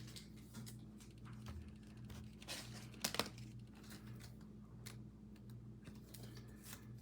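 Faint rustling and light clicks of trading cards being handled and shuffled, with a slightly louder crinkle about three seconds in, over a low steady hum.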